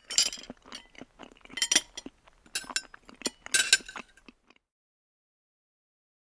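Tableware clinking, as at a meal: a quick run of light clinks and taps of cutlery against plates and glass for about four seconds.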